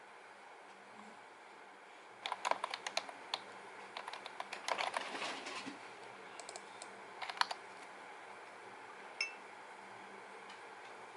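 Runs of rapid, light clicks in irregular bursts for about five seconds, then a single short clink with a brief ring.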